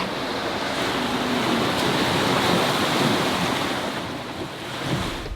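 Wind buffeting the microphone over the rush of sea waves past a sailing boat under way, swelling to a peak and then easing off.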